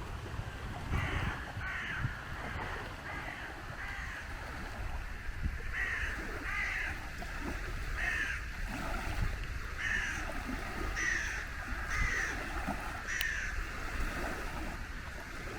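Crows cawing, about a dozen separate caws spaced irregularly, over a steady low background noise.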